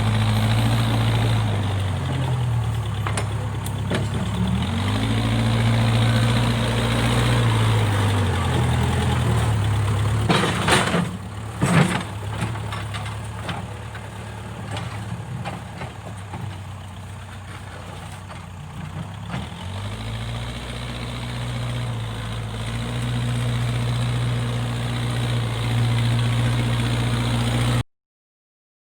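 Backhoe loader's diesel engine running, its pitch dipping and recovering several times as it takes load. A cluster of sharp knocks comes about eleven seconds in. The sound cuts off abruptly near the end.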